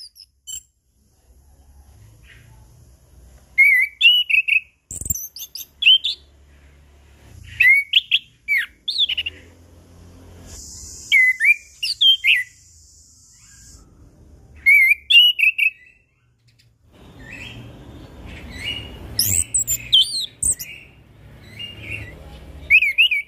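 Orange-headed thrush (anis kembang) singing in short, clear whistled phrases with quick pitch slides, separated by pauses, growing denser near the end.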